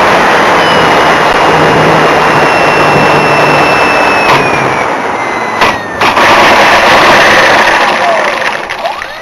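Brushless electric motor and propeller of an RC Cessna 182 heard from its onboard camera: a loud, steady high whine over heavy wind rush, its pitch sliding slowly down. A few sharp clicks come in the middle, and near the end the whine drops steeply and then rises again as the throttle is eased off and opened up.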